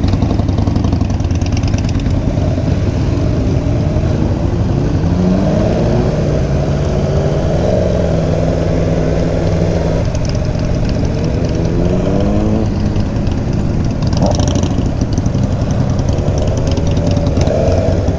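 Motorcycle engine accelerating under way, its pitch climbing and dropping back several times as it shifts up, over a steady low rumble.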